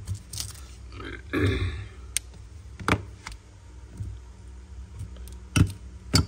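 Sharp clicks and knocks of a Zippo lighter being handled, a few separate clicks spread over several seconds, with a short rasping sound about a second and a half in.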